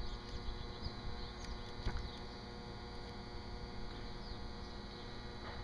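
Quiet outdoor background with a few short, high bird chirps and one faint knock about two seconds in.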